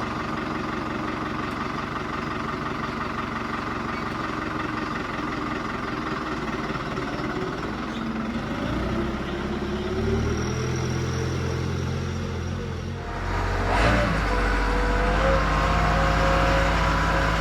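Tractor engine running. Its pitch rises partway through, and about three-quarters in, after a brief knock, it becomes louder with a deeper note.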